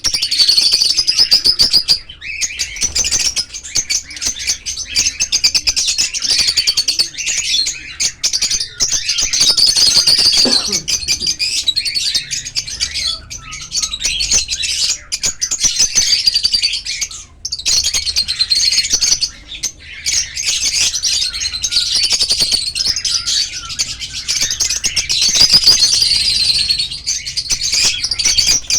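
A colony of lovebirds chattering and chirping together: a dense, shrill, rapid chatter with brief lulls every few seconds.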